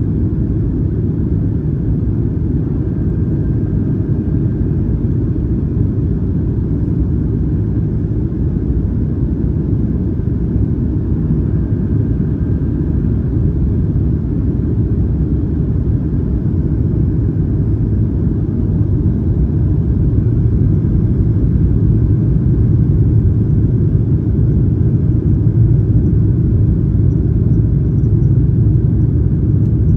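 Steady low rumble of jet engine and cabin noise heard from inside a Boeing 737-900ER airliner, growing slightly louder in the second half.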